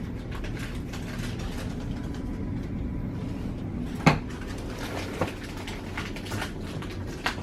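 Steady low background rumble, with one sharp knock about four seconds in and two fainter clicks later.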